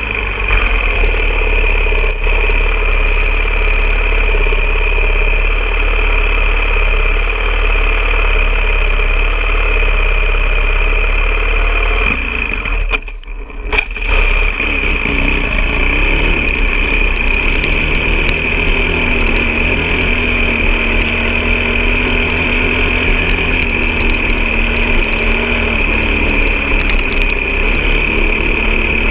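A vehicle engine running steadily, with a brief drop in level about thirteen seconds in.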